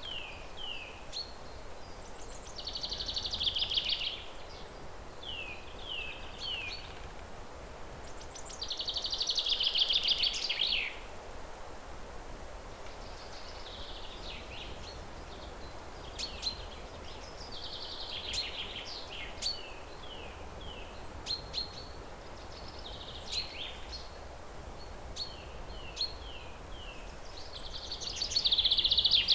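Songbirds singing: phrases of short downslurred whistled notes alternating with rapid, buzzy trills, the loudest trills coming three times. Steady low background noise runs underneath.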